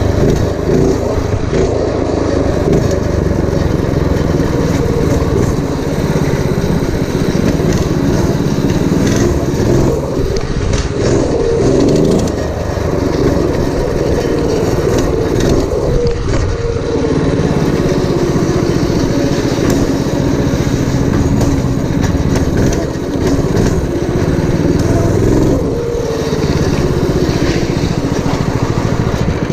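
Predator 212cc single-cylinder four-stroke engine on a minibike, running and revving up and down, its pitch rising and falling several times as the throttle is opened and eased.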